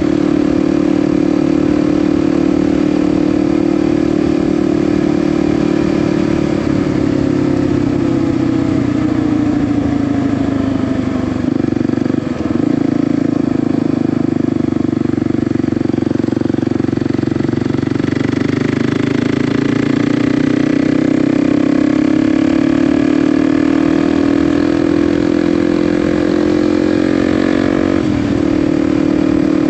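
Kawasaki KLX 300's single-cylinder four-stroke engine running at highway speed. The engine note sinks for a few seconds and breaks briefly about twelve seconds in, then climbs slowly before dropping abruptly near the end.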